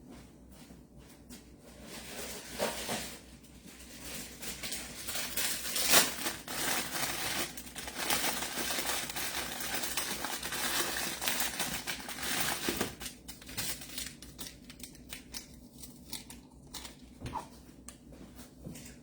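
Rummaging and handling noises: rustling and crinkling with scattered clicks and knocks, busiest through the middle, with one sharp knock about six seconds in.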